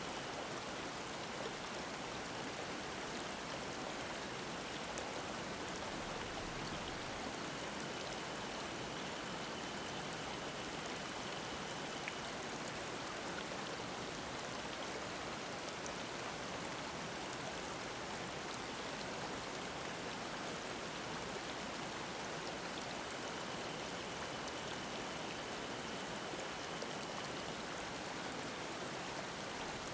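Mountain stream babbling steadily over rocks in a gorge. A faint thin high tone comes and goes twice, a few seconds each time.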